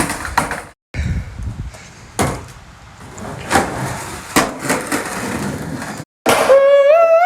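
Skateboard wheels rolling over wet pavement with several sharp clacks of the board striking the ground. Near the end a loud, held pitched tone comes in and steps up and back down in pitch.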